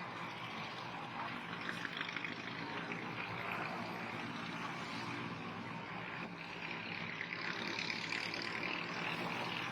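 Steady road traffic noise: vehicle engines running with a continuous low hum under a hiss of road and tyre noise.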